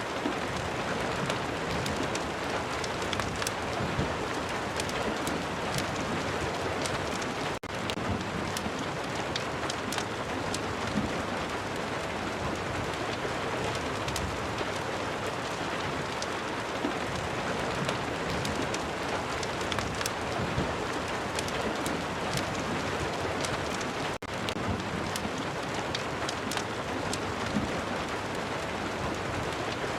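Steady rain, shot through with many small sharp crackles like a wood fire burning in a fireplace. The sound dips for a moment twice.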